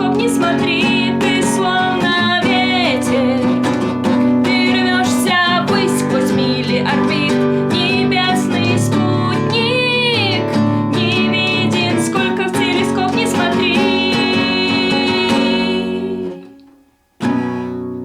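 Acoustic guitar music with a high, wavering melody line over sustained chords. It fades out about sixteen seconds in, then a single strummed chord rings out near the end.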